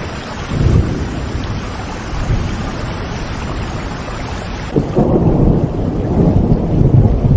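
Steady rain with rolling thunder. There is a low rumble just under a second in, then a louder, longer rumble from about two-thirds of the way through, as the hiss of the rain thins.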